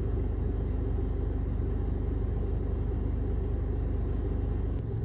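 2010 Mitsubishi Pajero engine running steadily, a low even rumble with a fine regular beat that shifts slightly near the end. The owner reports that this engine misfires at random.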